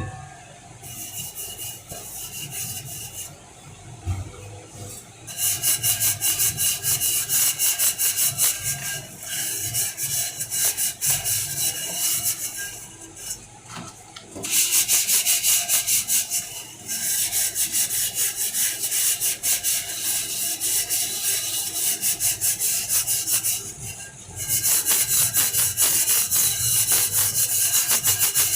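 A cooking pot being scrubbed hard with a scourer in rapid back-and-forth strokes. The scraping comes in several bouts with short pauses between them, louder from about five seconds in.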